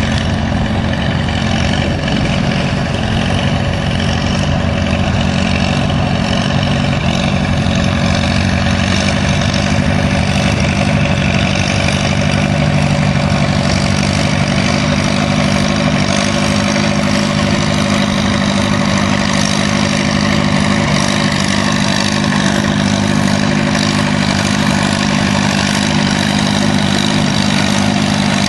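Antique tractor engine running, loud and steady.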